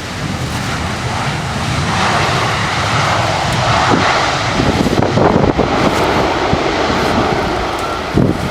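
Airliner's engines running loud as the aircraft passes, growing gradually louder, with wind gusts buffeting the microphone.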